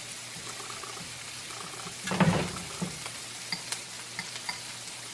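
Diced onions and bell pepper sizzling gently in butter in a nonstick frying pan while a spatula stirs and scrapes through them, with small scattered clicks of the spatula on the pan. A louder thump comes about two seconds in.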